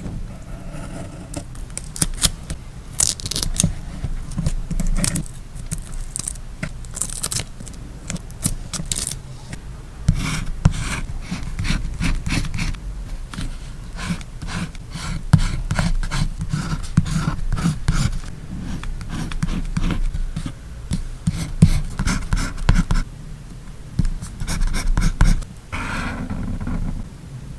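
Close-up paper-crafting sounds as stickers and washi tape are handled and laid on a journal page: an uneven string of scrapes, rustles, rubs and sharp clicks.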